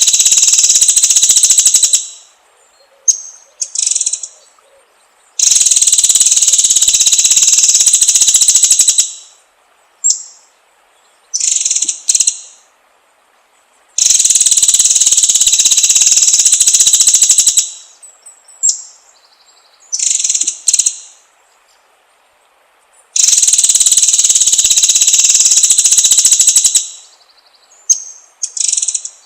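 White-rumped shama (murai batu) singing high, long rapid trills of three to four seconds each. Between the trills come a few short high notes and brief pauses, and the pattern repeats about every nine seconds.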